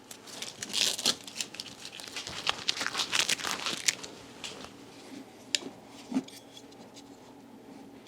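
Plastic crinkling and crackling as the plastic covers are pulled off a new car battery's terminals, a dense flurry for about three seconds, then a few scattered clicks.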